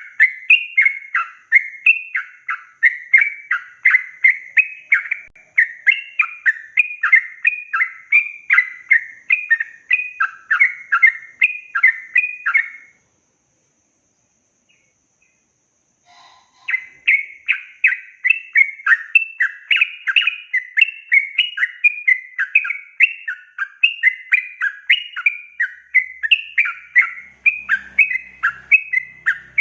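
Yellow-vented bulbul (trucukan) singing a long, fast chattering run of sliding whistled notes, about three a second. The song breaks off a little under halfway through for about four seconds of silence, then starts again and carries on.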